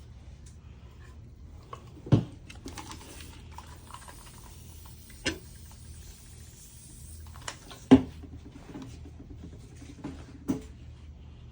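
Light handling sounds of decoupage work on a small wooden drawer: a few sharp taps and knocks, the loudest about two and eight seconds in, with soft rubbing of paper and brush between them.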